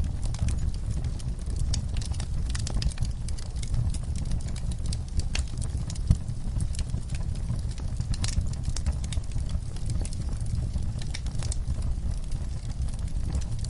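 Wood fire burning in a fireplace: a steady low rumble of flames with frequent, irregular sharp crackles and pops of the burning logs.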